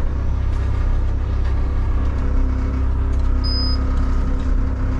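Diesel engine of a front-load garbage truck running steadily, heard from inside the cab as a low rumble. A short high-pitched tone sounds about three and a half seconds in.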